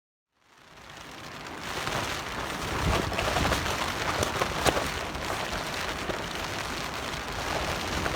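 Heavy rain pattering on the top of a tarp shelter, fading in from silence over the first second or two, then a steady, loud patter with sharper single drop hits.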